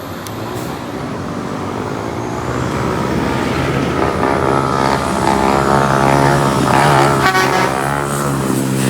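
A motor vehicle's engine approaching on the road, steadily getting louder over the second half as it comes close.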